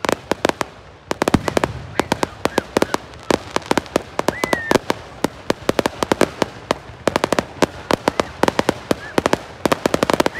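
Fireworks finale barrage: aerial shells bursting and crackling in quick succession, several sharp bangs a second with hardly a pause.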